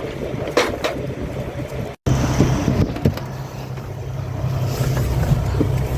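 Semi-truck diesel engine running steadily with a low hum, heard from inside the cab, with a few light clicks and rattles. The sound cuts out for an instant about two seconds in.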